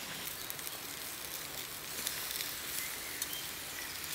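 Peppers cooking on the heat: a steady sizzle with scattered crackles, and a few faint bird chirps.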